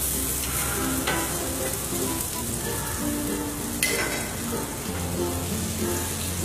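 Kebabs sizzling as they shallow-fry in a little oil on a hot tawa, with one sharp tap a little past halfway.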